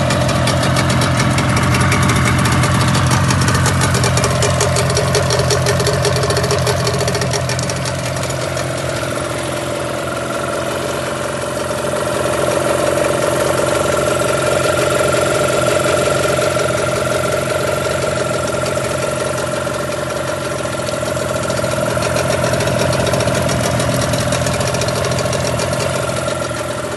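Outboard motor running steadily on a test run, easing off a little about a third of the way in and picking up again a couple of times.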